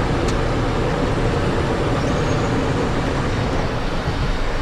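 Steady roar of a Cessna Citation XLS's twin turbofan engines and airflow, heard in the cockpit during the initial climb just after takeoff, with a deep rumble under it.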